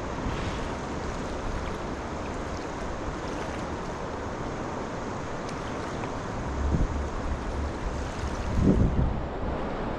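Steady rushing of wind and flowing river water, with wind gusting against the microphone in low rumbles twice near the end.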